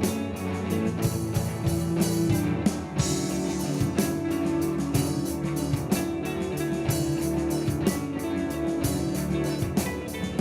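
Rock band playing: electric guitar over a drum kit, with sustained guitar notes and regular drum hits.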